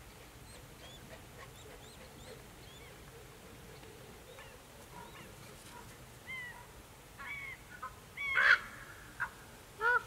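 Birds calling: faint, high, short chirps throughout, then a run of louder, short, harsh calls in the last four seconds, the loudest about eight and a half seconds in.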